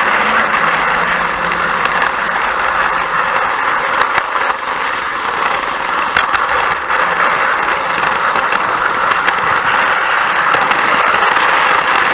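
A train running steadily on its track: an even running noise with faint, irregular clicks.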